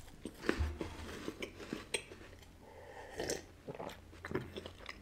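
Close-miked biting and chewing of a crunchy wafer, a scatter of small crunches and clicks.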